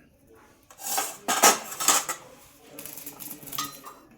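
Parrot splashing in a water dish, with bursts of splashing and rattling of the dish, the loudest between about one and two seconds in and fainter ones near the end.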